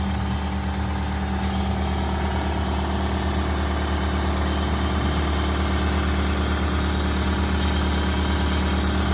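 Vacuum coolant-fill machine running with a steady hum, drawing the air out of the engine's cooling system before refilling it with coolant.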